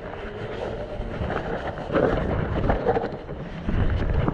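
Mountain bike rolling down a steep, muddy trail: tyres in the mud and the bike rattling over rough ground in a steady rumble, with many small irregular knocks and wind on the microphone.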